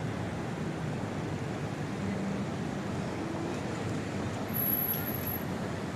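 Street traffic noise: a steady hum of passing vehicles, with a brief high-pitched tone about four and a half seconds in.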